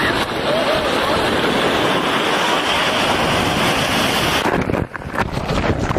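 Loud, steady rushing noise of wind and water on the microphone, breaking up into uneven gusts about four and a half seconds in.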